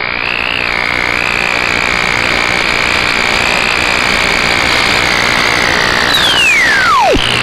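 CB radio hiss with a steady, slightly wavering whistle tone; about six seconds in, a second whistle sweeps steeply down in pitch and fades out.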